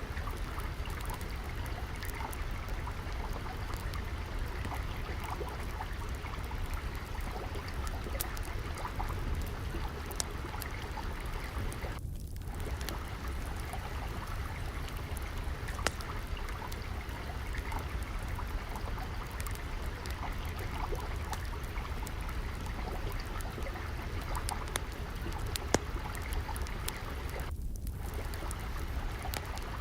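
Steadily flowing water mixed with a wood fire crackling, its sharp pops scattered irregularly through the rush of the water.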